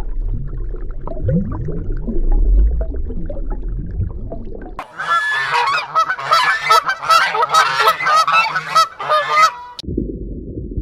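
Low rumbling with a few short rising low calls, then about five seconds of rapid, overlapping honking calls from a group of waterfowl that stops abruptly.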